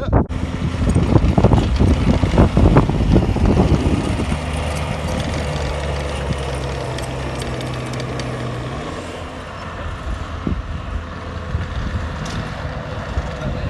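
Motor vehicle engine running: rough and uneven for the first few seconds, then settling into a steady idle that drops away about nine seconds in, with wind on the microphone.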